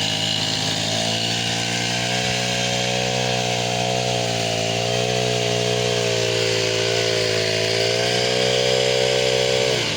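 Chainsaw engine running at high revs under load, its pitch sagging a little and recovering as it cuts. Near the end the revs drop off sharply.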